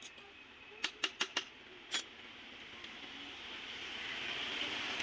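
Sharp metallic clicks from tools and engine parts being handled: four quick ones about a second in and one more a moment later. A hiss grows louder toward the end.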